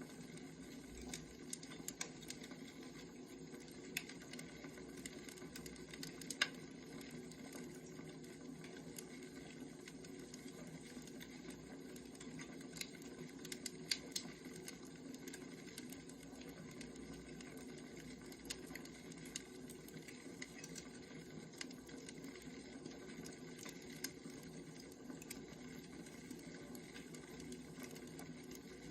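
Wood fire crackling, with scattered sharp pops and ticks over a steady low hum.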